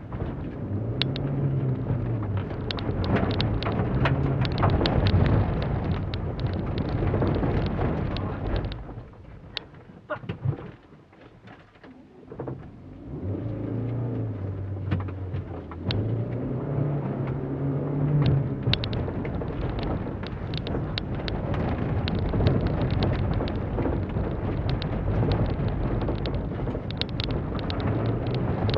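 Holden Barina's four-cylinder engine heard from inside the cabin, revving up and down through the gears, with stones and gravel ticking against the underbody. About nine seconds in the engine drops back and goes quieter for a few seconds, then revs up again.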